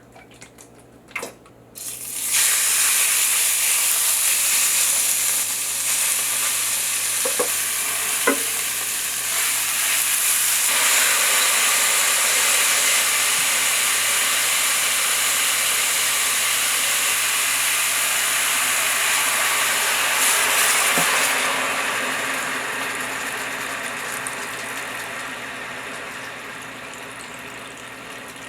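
Seasoned dried radish greens sizzling as they are stir-fried in a hot oiled pan. The sizzle starts suddenly about two seconds in after a couple of clicks, gets fuller about ten seconds in, and slowly dies down over the last several seconds, with two light knocks along the way.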